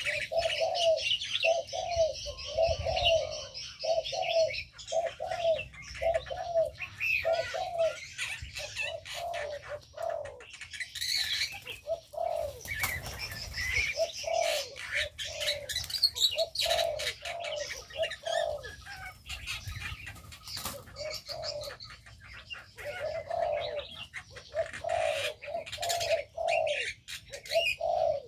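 Mixed aviary birds calling: a low call repeated about twice a second, with short pauses, over higher chirps and calls from other birds.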